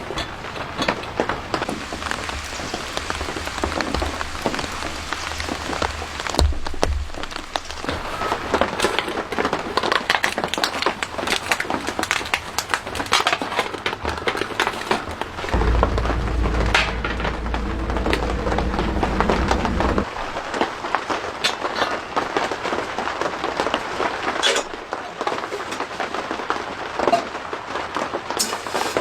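Rain falling steadily on a surface, a dense patter of small drops. A low rumble comes in about halfway through and lasts several seconds.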